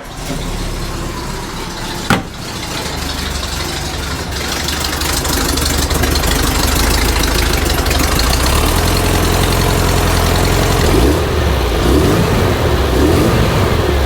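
Vintage VW bus air-cooled engine, fitted with a mild performance cam, running steadily at idle, with one sharp click about two seconds in.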